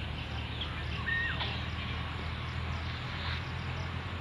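Outdoor park ambience: a steady low rumble under a short bird whistle about a second in that holds one note and then drops, with faint high chirps.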